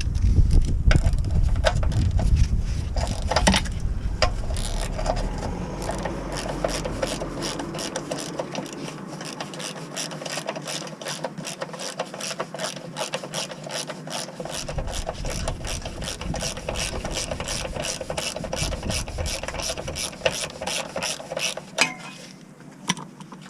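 Socket ratchet clicking in a fast, even train of several clicks a second, as a fastener is turned. A low rumble in the first few seconds fades out under it.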